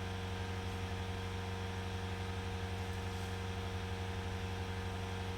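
An engine running steadily, a constant low hum with a fast, even pulse and no change in speed.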